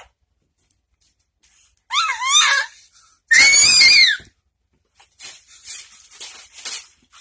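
Two loud, very high-pitched squeals, each wavering up and down in pitch, about two and three and a half seconds in, the second louder. Then a string of short, breathy gasps.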